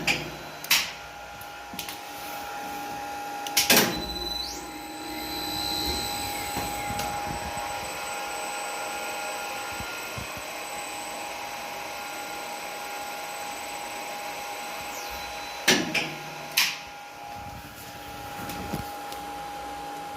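Lift machinery running steadily after a controller reset, a motor-like noise with a faint steady whine, and sharp clicks near the start and again near the end.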